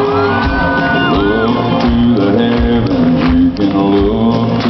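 Live country band playing amplified in a large hall, with sung melody over a steady drum beat. A long high whoop rises over the music in the first second and a half, with shouts from the crowd.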